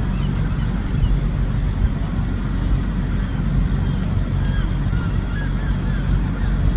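A steady low rumble, with a few short high chirps about four to six seconds in.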